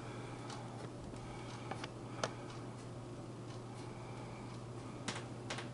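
Quiet indoor room tone with a steady low hum and a few faint, irregular clicks.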